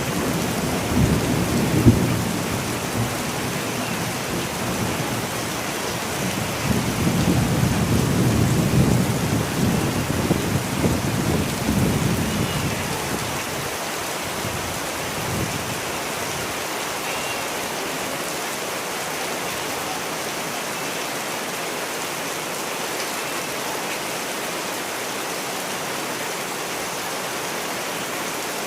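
Steady rain falling, with rolling thunder rumbling low through the first half and dying away a little past halfway, leaving the rain alone.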